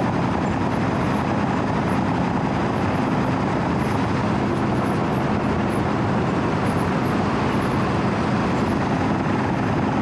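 Diesel engine of a Wirtgen W 120 CFi cold milling machine running steadily as the machine travels, heard from the operator's platform.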